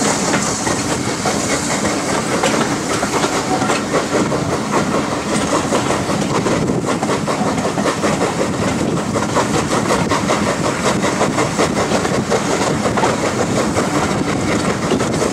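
Steam-hauled train running past at close range, its carriage wheels clattering over the rail joints in a quick, continuous clickety-clack.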